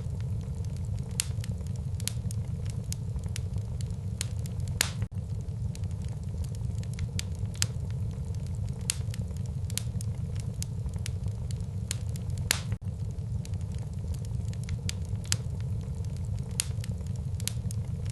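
Wood fire burning in a fireplace: a steady low rumble of flames with frequent sharp crackles and pops, two louder pops about five seconds in and again near thirteen seconds.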